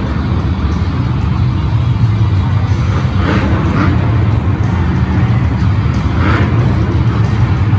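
Monster truck engines rumbling loudly in an arena, a deep steady drone with a short swell every few seconds.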